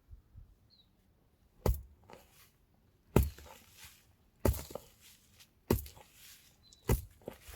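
A series of sharp knocks or strikes, five of them at a steady pace of about one every second and a quarter.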